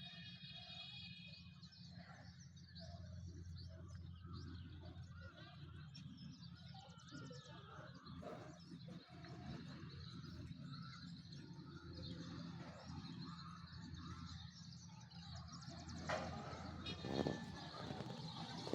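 Birds chirping and calling faintly over a steady low background hum, with a short rapid trill at the start. A brief louder noise comes about sixteen seconds in.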